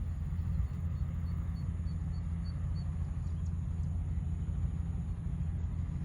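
Crop-spraying helicopter running with a steady low rumble. A quick run of about eight faint high chirps sounds about a second in.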